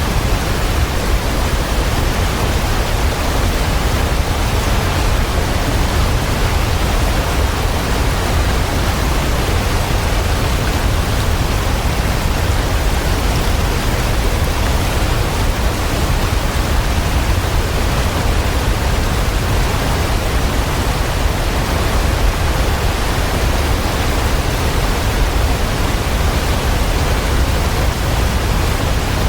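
Waterfall rushing in a steady, dense roar of falling water that does not change.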